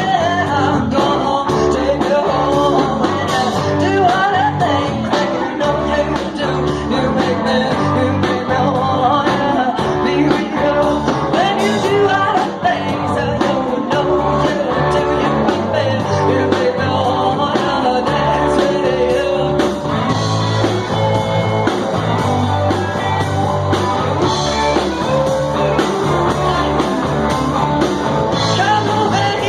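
Live garage rock band playing loud, fuzzy electric guitar and drums with a singer, a steady driving beat throughout.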